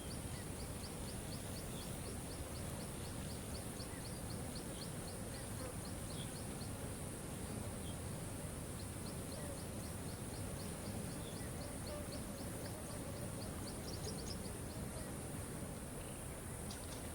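Steady rush of falling water with a rapid series of short, high chirps, about four a second, in two long runs with a pause between, over a constant high hiss.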